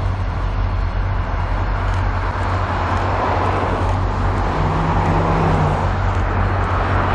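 Diesel-powered train running past: a steady low engine drone with rolling noise that builds from about halfway through.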